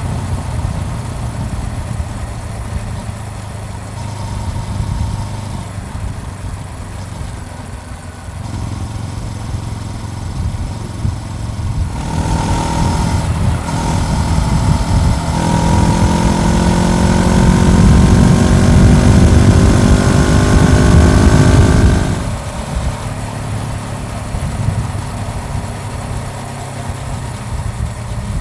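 Honda CBR400R's parallel-twin engine heard from on the bike, running steadily at low revs, then accelerating hard after about twelve seconds with its pitch rising, one upshift, and a second rise. About ten seconds later the throttle is shut and the engine settles back to a lower, steady note.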